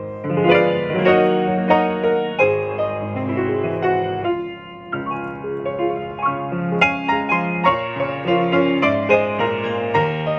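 Solo piano playing slow, gentle music, struck notes ringing over held bass notes, with a brief lull about four and a half seconds in.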